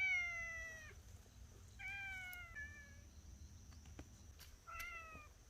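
A cat meowing several times, each call slightly falling in pitch; the first and loudest call is the longest.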